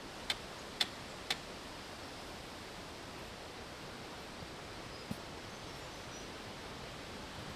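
Steady quiet outdoor hiss with no engine running, broken near the start by three short clicks about half a second apart.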